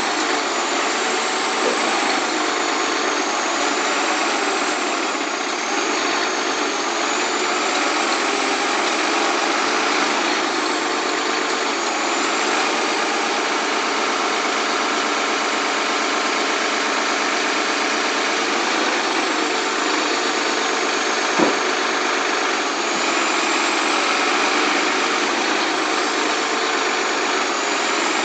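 Komatsu PC300-8 excavator's six-cylinder diesel engine running steadily on a test run after a full overhaul, with a faint high whine that wavers in pitch. One sharp click about two-thirds of the way through.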